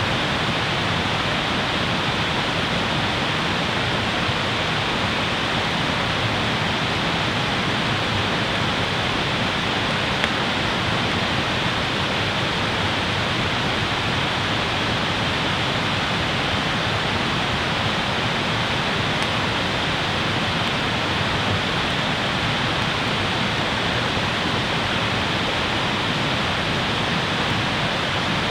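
Steady, even rushing noise with one faint click about ten seconds in.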